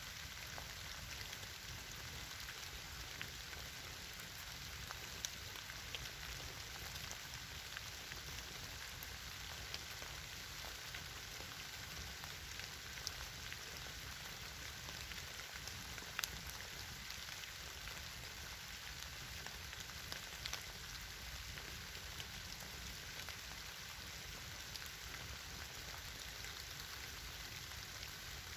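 Campfire burning with a steady crackle and occasional sharp pops, the loudest about 16 seconds in.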